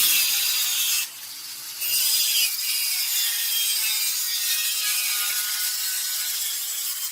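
Steady scraping of a tool working metal, with a brief break about a second in, fading near the end.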